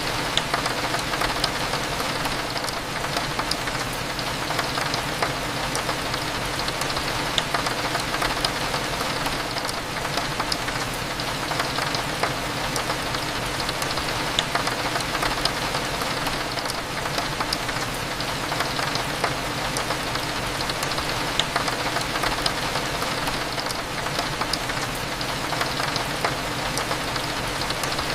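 Steady rain against a window, a dense patter of small drop ticks, over a low, steady cafe hum.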